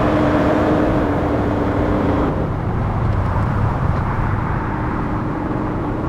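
AI-generated car-chase sound effects: a sports car's engine running at speed under a steady rush of wind and road noise. A steady whine sits on top, fades about two seconds in and comes back faintly near the end.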